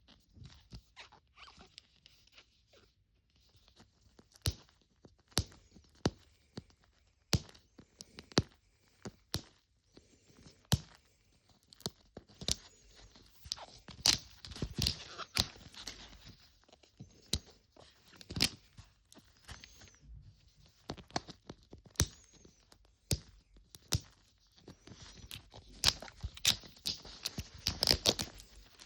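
Small plastic wrappers being torn open and crinkled by hand, with many sharp clicks and ticks of small plastic pieces being handled; busiest in the middle and near the end.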